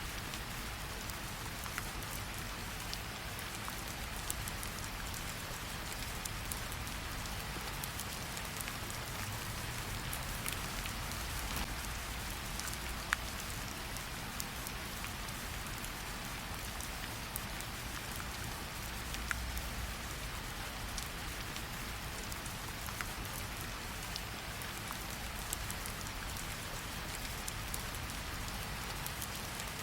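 Steady rain falling, mixed with a crackling fireplace. A few scattered sharp pops stand out, the loudest about 13 seconds in.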